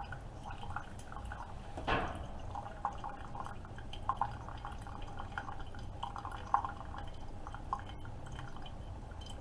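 Keurig K-Supreme Plus pod coffee maker mid-brew: coffee trickling and dripping into a cup over the machine's steady low hum, with one louder splash about two seconds in.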